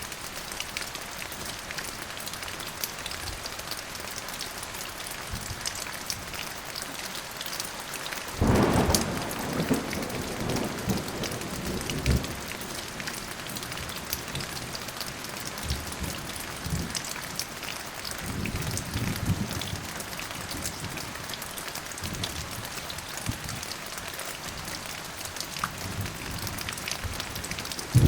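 Steady rain falling, with a roll of thunder that breaks suddenly about a third of the way in and rumbles off over several seconds, a fainter rumble about two-thirds through, and a louder thunderclap starting at the very end.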